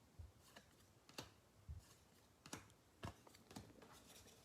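Faint, short clicks of trading cards being flipped and slid through the hand, about seven at uneven spacing.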